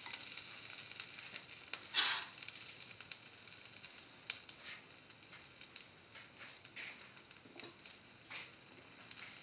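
Shallots, garlic and freshly added ginger sizzling in hot oil in a pan: a steady high hiss with scattered pops and crackles, the loudest about two seconds in.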